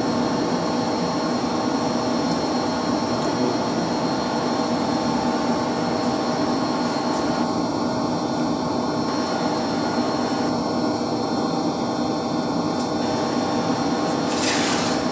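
Steady hum and whir of running machinery in a heating plant room, with the standby circulation pump running, several fixed tones held over a broad noise. A brief hiss near the end.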